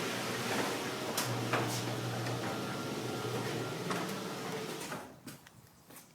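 Older LiftMaster garage door opener running a sectional door along its tracks: a steady motor hum with rattles and a few clicks, stopping about five seconds in.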